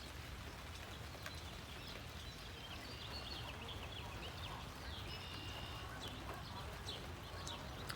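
Birds chirping faintly over the steady patter of rain, with a run of short, high chirps in the middle.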